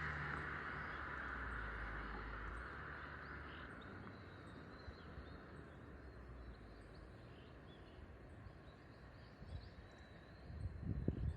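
Exhaust note of a Subaru WRX S4's turbocharged flat-four through an HKS Super Turbo Muffler Ti titanium exhaust, fading away over the first few seconds as the car moves off. Faint birds or insects chirp in the background, and near the end irregular low rumbling thumps start up and grow loud.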